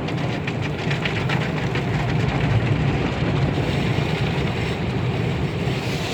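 Automatic car wash heard from inside the car's cabin: a steady low rumble of the machinery, with a rapid patter against the car's body for the first couple of seconds.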